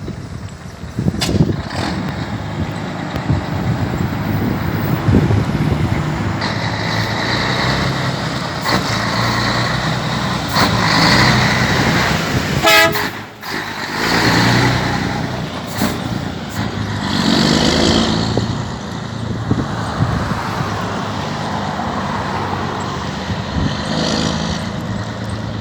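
Scania 113 H truck's straight-six diesel engine running, swelling louder several times as it is revved. A short horn toot comes about halfway through.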